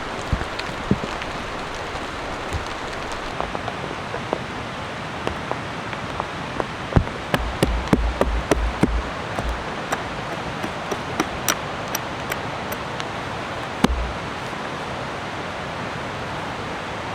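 Steady rain hiss with scattered sharp taps of drops hitting a surface, thickest in the middle, and a few low thumps about halfway through and again near the end.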